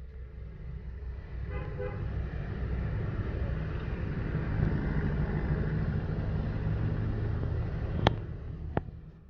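GE CM20EMP (CC 206) diesel-electric locomotive and its train passing slowly, a rumble of engine and wheels that builds and then fades near the end. A short horn blast comes about a second and a half in, and two sharp clicks come near the end.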